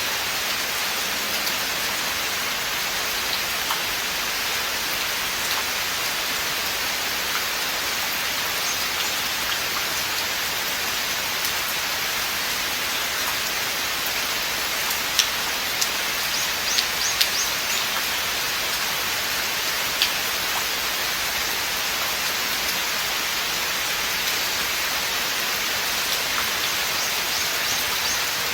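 Steady rain falling on a forest, an even hiss of many drops. A few louder, close drops tap out about halfway through.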